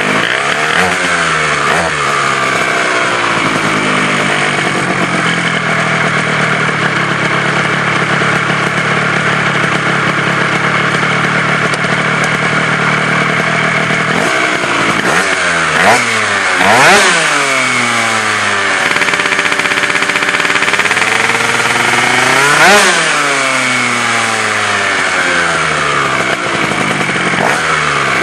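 Gilera Runner scooter's two-stroke engine running through an MHR team aftermarket exhaust pipe. It holds a fairly steady speed for about the first half, then is revved up and let fall back several times, with peaks about halfway through and again later on.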